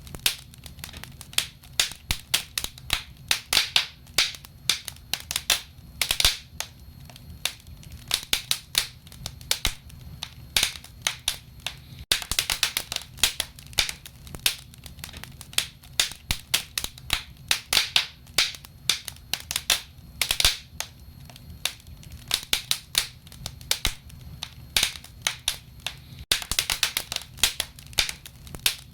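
Wood fire burning in a fireplace, crackling and popping in dense, irregular clusters of sharp snaps over a low rumble of the flames.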